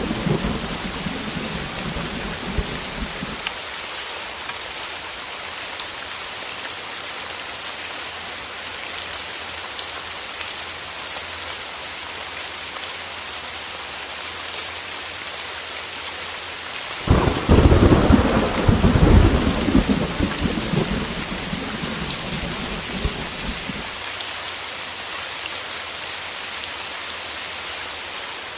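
Heavy rain falling steadily, with thunder: a rumble dying away in the first few seconds, then a sudden thunderclap about seventeen seconds in that rumbles on for several seconds before fading.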